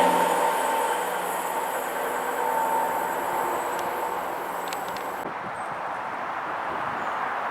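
A train passing and moving away, its engine note fading over the first couple of seconds and then settling to a lower, steady level.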